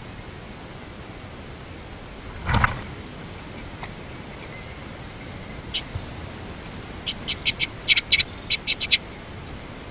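A bird giving a quick run of about ten short, sharp chip calls near the end, over a steady hiss. A single brief thump comes about two and a half seconds in.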